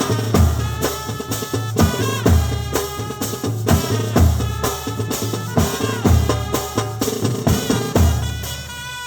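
Brass band playing a tune, with horns carrying the melody over a steady beat on bass drum and snare.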